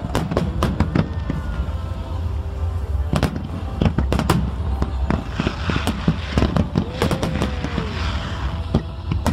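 Fireworks display: a rapid, irregular string of bangs and crackles from bursting shells over a continuous low rumble, with a denser crackling hiss about five to eight seconds in.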